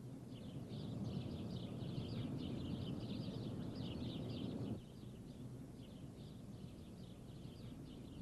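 Birds chirping busily over a low outdoor rumble. The rumble cuts off abruptly about five seconds in, while the chirping carries on.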